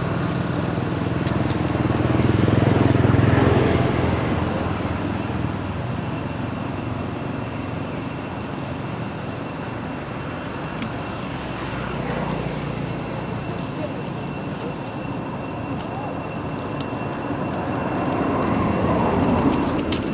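Steady outdoor background noise with a motor vehicle's engine hum swelling and fading, louder about two to four seconds in and again near the end.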